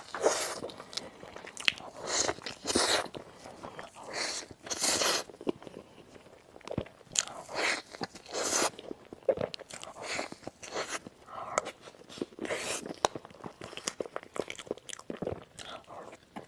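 Close-miked crunchy bites and chewing of crisp food, in irregular bursts about one every half second to a second.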